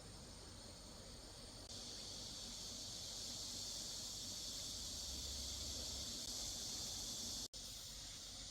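Steady high-pitched chorus of late-summer insects, growing louder about two seconds in, with a momentary dropout near the end.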